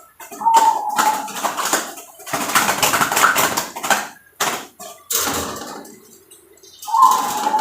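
Zebra dove (perkutut) cooing: a short clear coo about half a second in and another near the end. Loud bursts of noise with no clear pitch fill the middle.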